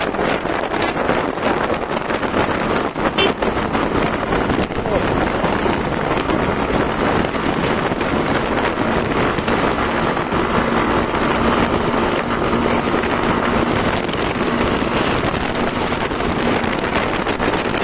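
Wind rushing over the microphone of a moving motorcycle, with the Hero Xtreme 160R's engine running underneath. A faint steady hum joins about six seconds in and fades near the end.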